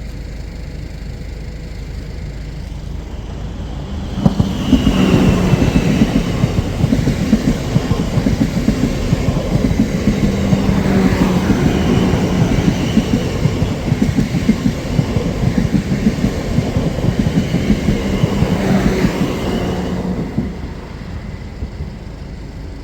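A train passing close by. It starts suddenly about four seconds in, with the wheels clattering rhythmically over the rails under a steady low hum, and drops away abruptly near the end.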